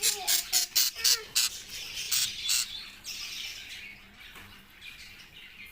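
Many small pet birds chirping and squawking together: a rapid run of sharp, shrill calls, about four or five a second, for the first two and a half seconds, then a steady high chatter.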